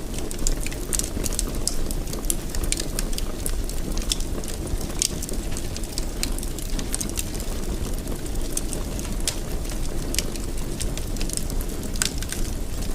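Fireplace fire crackling, with frequent sharp irregular pops over a steady low sound of burning.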